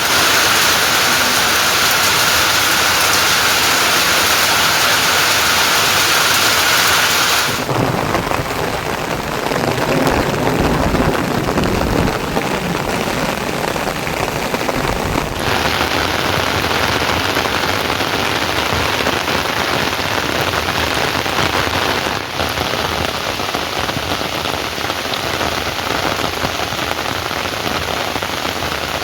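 Heavy rain falling steadily. The sound shifts abruptly a few times, and a deeper rumble runs through several seconds in the middle.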